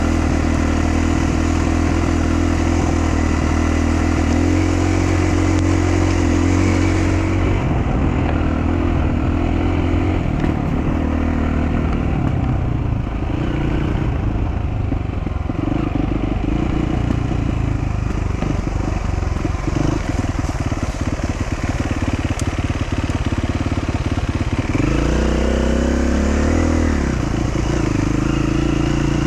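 Dual-sport motorcycle engine running on a rough trail. It holds a steady drone for several seconds, turns choppy and uneven through the middle, and revs up and back down near the end.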